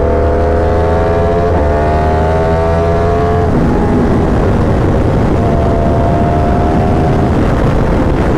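A sport motorcycle's engine being ridden under load, its pitch climbing steadily. Its note breaks briefly about a second and a half in and again about three and a half seconds in, then settles to a steadier, lower drone over a constant rushing noise.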